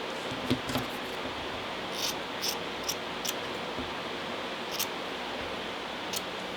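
Steady hiss with about eight light clicks and rustles scattered through it, from hands straightening the wool strands of a handmade wool bird.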